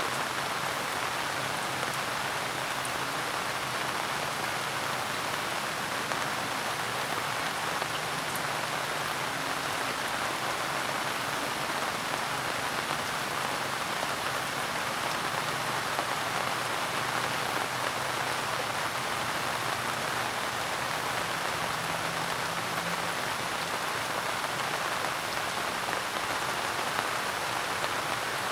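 Steady rain falling on surfaces, an even hiss of many drops with no thunder.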